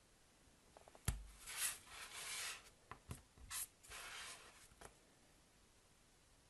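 Soap being unpacked from its packaging: a sharp tap about a second in, then a few short stretches of rubbing and scraping broken by light taps, which stop about five seconds in.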